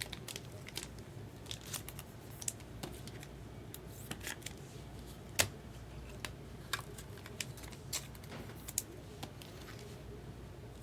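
Trading cards being handled and sorted by hand: an irregular run of light clicks and snaps as card edges tap and slide against each other, one sharper snap about halfway through.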